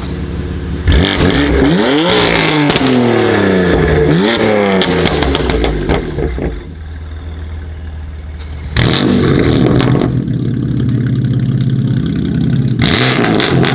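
BMW M4 F82's twin-turbo inline-six with a Milltek exhaust revving hard from idle: the pitch climbs and falls twice in quick succession with crackles on the way down, drops back to idle, then rises again for two more bursts near the end.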